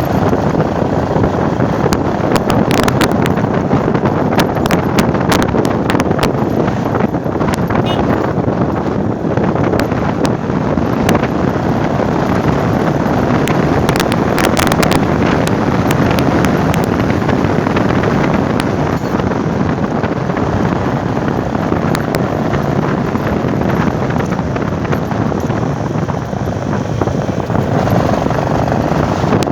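Motorcycle on the move: a steady rush of wind over the microphone with engine and road noise underneath, and scattered sharp clicks or knocks about three seconds in and again around fourteen to fifteen seconds.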